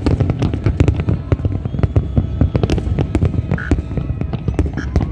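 Fireworks display: a dense, continuous barrage of bangs and crackles from many shells bursting in quick succession, over a low rumble.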